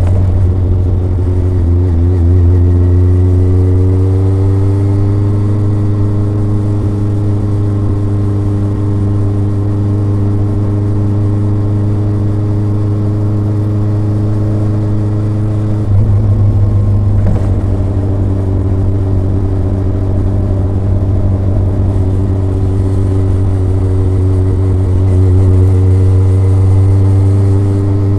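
Kawasaki ZRX's inline-four engine and exhaust under way, the note rising gently over the first few seconds and then holding steady. About two-thirds of the way through the note breaks briefly, then settles into steady running again.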